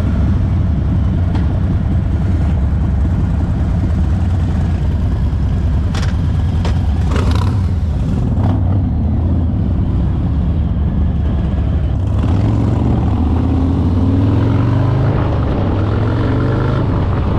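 Motorcycle engine running steadily at road speed, its note climbing as it accelerates in the second half.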